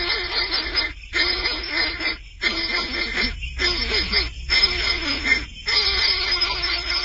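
Young bird's raspy begging calls, coming in harsh runs about a second long with brief pauses between them.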